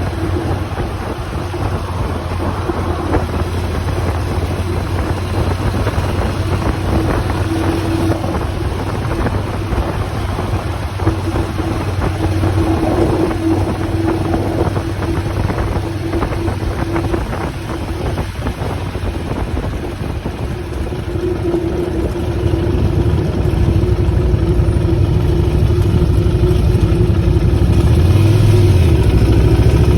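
Motorcycle engine running under way, with wind noise buffeting the microphone. It gets louder in the last third of the stretch.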